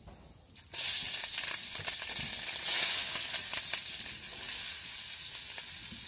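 Chopped onions and green chillies hit hot groundnut oil and start frying with a loud sizzle that begins suddenly about a second in, with small crackles through it. The sizzle swells near the three-second mark as more onion goes in, then eases off steadily.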